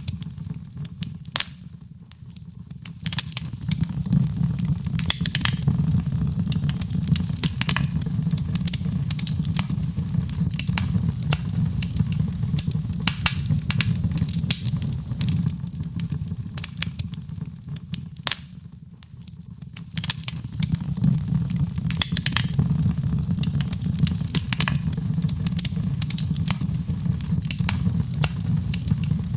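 Fireplace fire crackling: frequent sharp pops and snaps over a steady low rumble, easing off briefly twice, about two seconds in and again past the middle.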